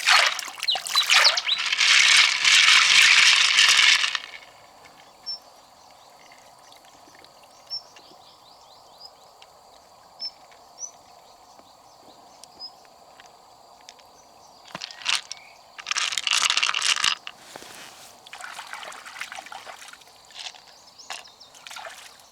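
Water splashing and pouring in loud bursts, for about four seconds at the start and again in several bursts later. In the quieter stretch between, a steady high insect buzz and a few small clicks.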